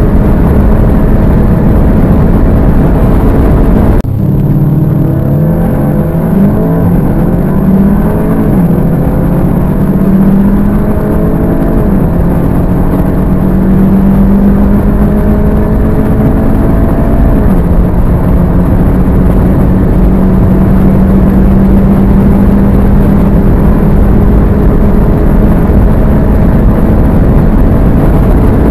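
Turbocharged four-cylinder hatchback at full throttle, heard from inside the car: a steady engine drone with heavy wind and road noise at high speed. About four seconds in, the sound cuts abruptly to another stretch where the engine note climbs through several quick upshifts into a long, slowly rising pull. It drops at one more upshift about two-thirds of the way through, then settles into a steady drone.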